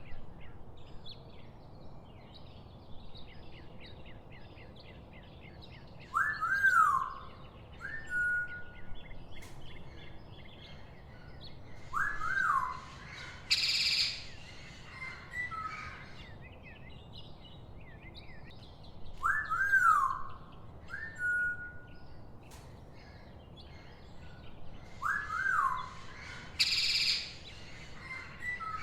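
Birds calling over constant small chirping: four loud calls that sweep up and back down, two short flat whistles and two harsh, noisy calls. The sequence repeats about every 13 seconds, like a looped soundtrack.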